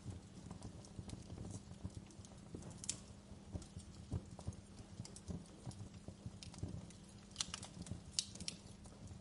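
Wood fire crackling, with irregular sharp pops and snaps over a low, steady rush of flames; a few louder pops come in the last few seconds.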